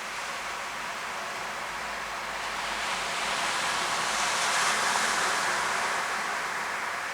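Ocean surf on a sandy beach: a wave breaking and washing in, swelling about a third of the way through and easing off again.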